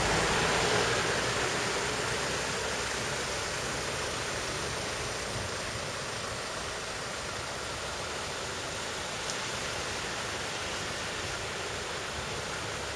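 Steady rush of water from a valley stream or waterfall, a little louder in the first second and easing slightly after.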